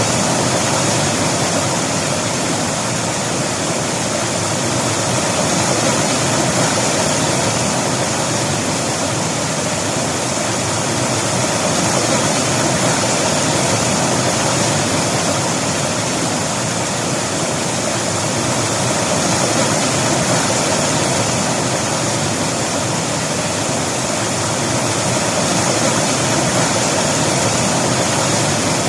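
River water flowing steadily over rocks: a dense, even rush of water that swells gently every few seconds.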